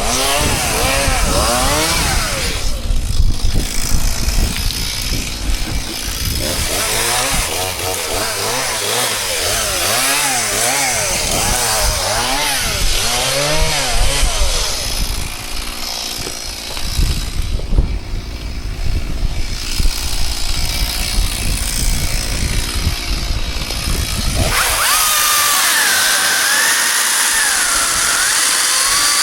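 Chainsaw running and cutting wood, its engine note rising and falling again and again. Near the end it gives way to a steadier hissing machine sound with a wavering whine.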